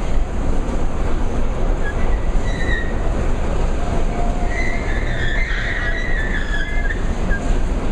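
Moving vehicle: a steady loud rumble with high, wavering squeals through the middle and later part.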